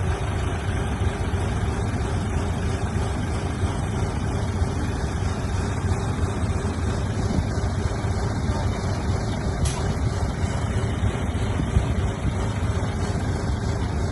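Heavy construction machinery's diesel engine running steadily, with a brief click about ten seconds in.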